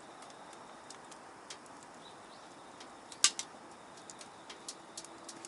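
Firewood crackling in a Sho's Bonfire Box Easy folding wood stove that is burning hard: scattered sharp ticks and pops, with one loud crack a little past the middle.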